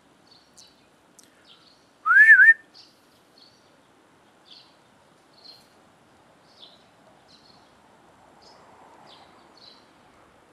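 A person whistles once to call a dog, a short rising whistle with a wobble near the top. Faint small chirps repeat about once a second in the background.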